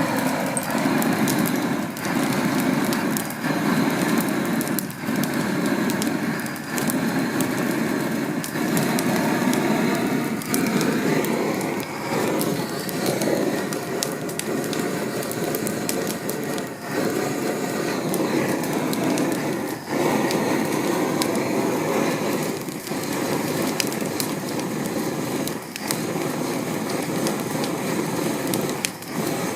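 Wood fire crackling, with frequent small pops and snaps over a steady hiss.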